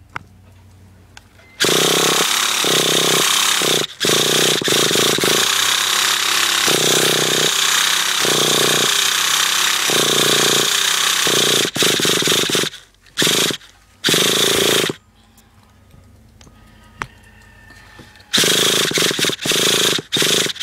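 The small nitro engine of a Traxxas T-Maxx RC truck is cranked in repeated bursts that stop and start, the first lasting about ten seconds, without catching and running on its own. It is a cold start after the truck has sat for a week or two, and the engine is not wanting to go.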